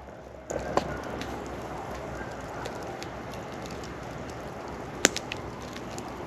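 Campfire crackling, with a sharp pop about a second in and a louder one about five seconds in. Faint distant coyotes yip and howl behind it.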